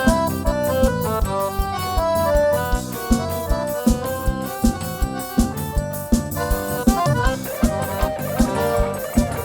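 Instrumental break of a forró pé-de-serra song: accordion playing the melody over a steady beat of zabumba drum and triangle.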